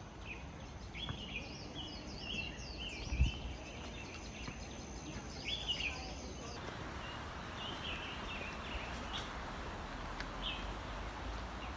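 Forest birds calling with short chirps and whistled notes, over a thin steady high-pitched tone that stops about halfway through, when a steady hiss sets in. A single low thump about three seconds in.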